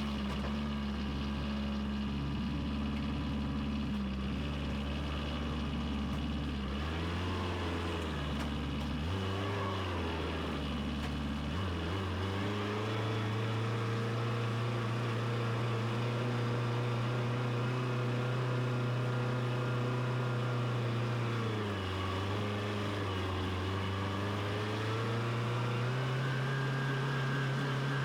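Tractor engine running steadily while driving. Its pitch steps up about twelve seconds in, dips briefly later on, and rises again near the end.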